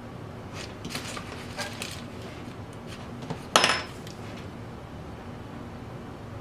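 A few light clicks of small hard objects handled on a work surface, then one sharp clink with a brief ring about three and a half seconds in, like a metal tool or utensil set down on the table, over a steady background hiss.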